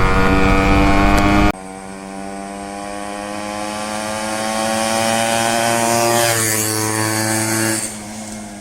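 Yamaha RX 100's two-stroke single-cylinder engine running hard under acceleration as the bike is ridden, with wind on the microphone for the first second and a half. The engine note grows steadily louder, dips in pitch about six seconds in, then drops off in level near the end.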